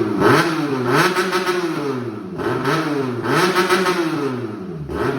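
QJ Motor 400-RR motorcycle engine revved repeatedly through an aftermarket exhaust with its remote-controlled valve opened, the pitch rising and falling with each throttle blip about once a second.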